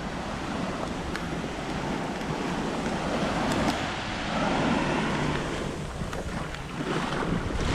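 Steady rush of small waves washing on the beach, with wind buffeting the microphone and a few faint ticks.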